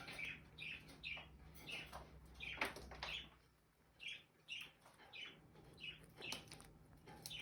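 Young Indian ringneck parrots giving soft, short chirps again and again, with a few faint clicks among them.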